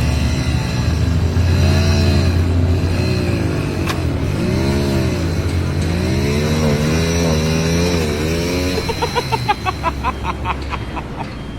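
An engine revving up and down repeatedly over a steady low drone, with a quick rattling run of pulses near the end.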